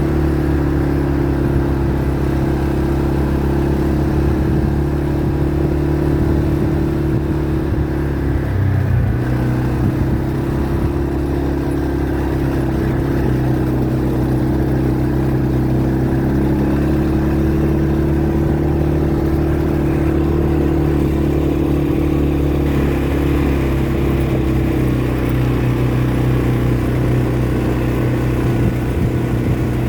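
ATV engine running steadily while riding, with a brief dip in engine pitch about nine seconds in.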